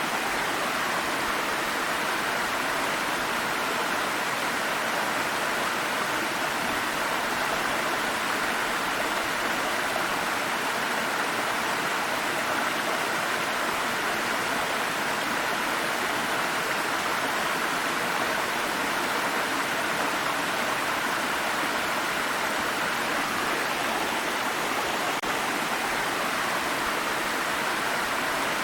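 Water stream running over rocks: a steady, even rush of flowing water.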